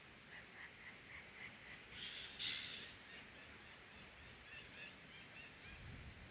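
Faint, high-pitched chirping of small birds: a run of short chirps in the first two seconds, a louder brief burst about two seconds in, then a few more chirps near five seconds. No low dove cooing is heard.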